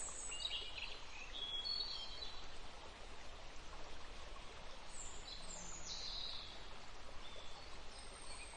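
Birds chirping in short phrases, a few near the start and again about five seconds in, over a steady faint hiss of outdoor ambience.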